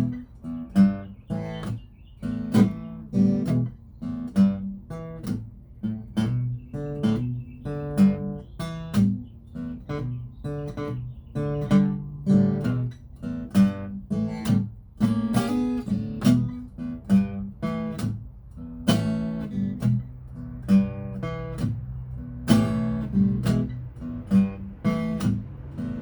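Acoustic guitar playing an instrumental break, chords strummed and picked in a steady rhythm with no singing.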